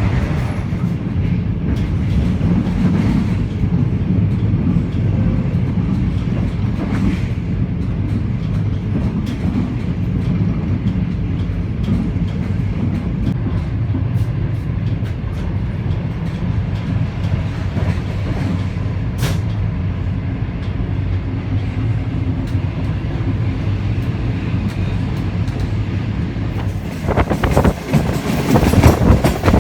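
Passenger train running along the line, heard on board: a steady low rumble of wheels on the rails. Near the end it turns louder and rougher.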